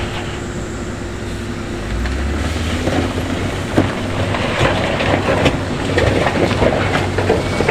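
Heavy diesel construction machinery running steadily, with stones clattering and knocking as they are moved, more of it in the second half.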